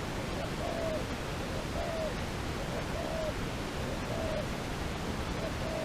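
A dove cooing: short single coos repeated evenly about once a second, over a steady hiss of background noise.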